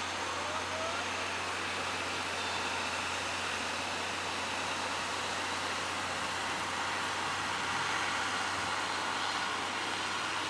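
Steady roar of big waves and wind, with a low steady hum underneath.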